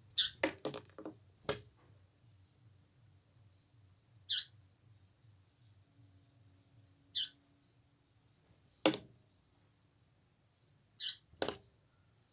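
Indian paradise flycatcher giving three short single calls a few seconds apart. A few sharp knocks sound in between, several near the start and one each near 9 and 11.5 seconds.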